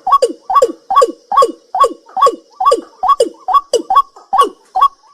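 A night bird calling over and over, about two and a half calls a second; each call is a short higher note followed by a note that slides down in pitch.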